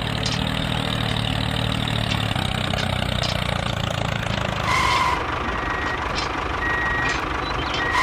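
Engine sound of a model construction vehicle running steadily, then a reversing beeper that starts about halfway through and beeps about once a second.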